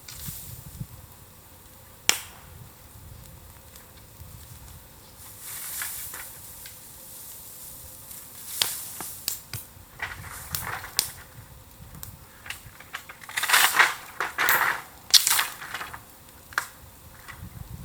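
Burning bamboo in a bonfire crackling with scattered sharp pops, and a run of louder crackling bursts a little after two-thirds of the way in.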